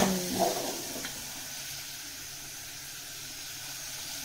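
Spiced masala frying in oil in a steel pot, giving a steady, even sizzle, with a short voice at the very start.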